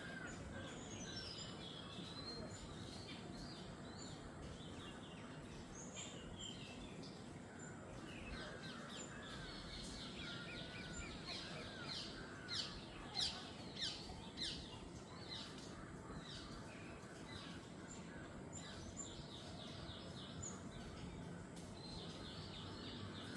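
Jungle bird chorus: many birds chirping and whistling over a steady background hiss, with a quick run of sharp downward-sweeping calls about halfway through, the loudest moment.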